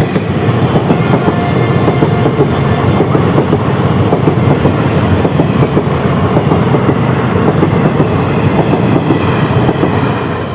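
Passenger train of ICF coaches passing close at speed, the wheels clattering rapidly over the rail joints; the sound drops away near the end as the train moves off.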